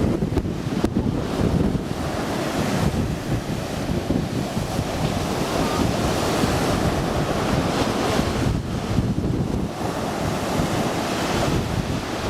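Rough sea surf breaking and washing on the shore, swelling in surges, with wind buffeting the microphone.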